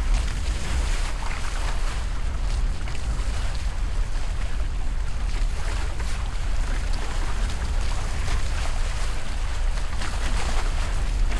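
Wind buffeting the microphone with a steady low rumble, over the rush and splash of water along the hulls of a Hobie 16 catamaran under sail, with brief louder splashes here and there.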